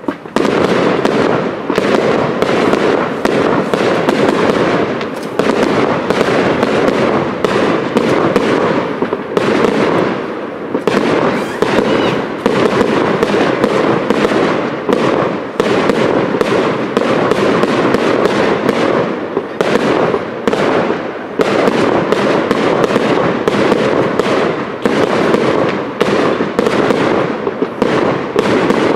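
Professional fireworks display: aerial shells bursting in a loud, dense run of bangs in quick succession, starting abruptly, with short lulls about ten seconds and about twenty-one seconds in.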